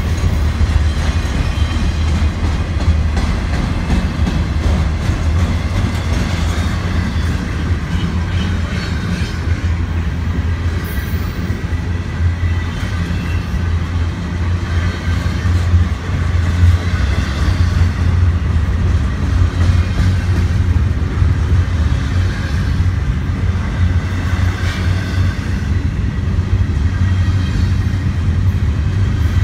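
Double-stack intermodal freight train's well cars rolling past at close range: the steel wheels on the rail make a steady, loud, low rumble that carries on throughout.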